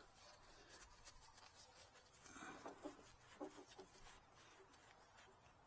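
Faint rubbing with scattered light clicks: a rag wiping down the work area around the generator, otherwise near silence.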